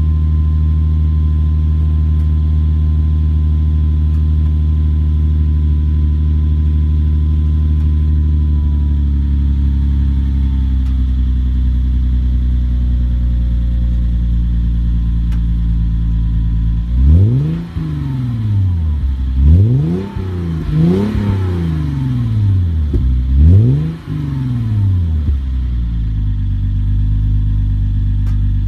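Car engine idling steadily through its exhaust, then blipped four times in quick revs, each rising sharply in pitch and falling back, before settling back to idle.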